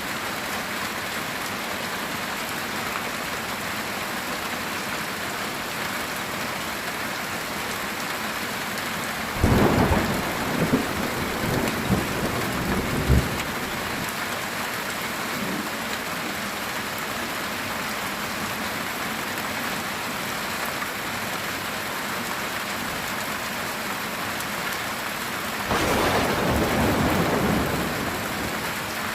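Heavy rain falling steadily on a metal tin roof. A sharp clap of thunder breaks out about a third of the way in and crackles on for a few seconds, and a second, longer roll of thunder comes near the end.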